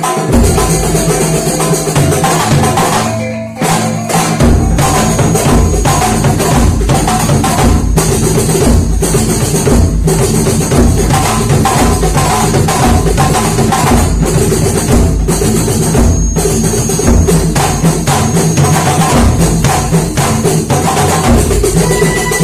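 Kuntulan percussion ensemble playing: frame drums and a bass drum beat out a dense, fast rhythm. The playing dips briefly about three and a half seconds in, then resumes with heavy deep drum beats.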